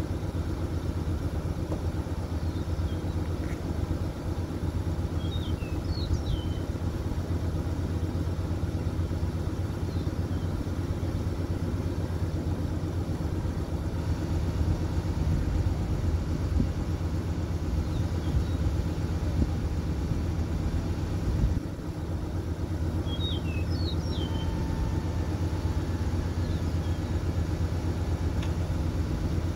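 1968 Ford Galaxie's 390 four-barrel V8 idling steadily, with a brief dip in level about two-thirds of the way through.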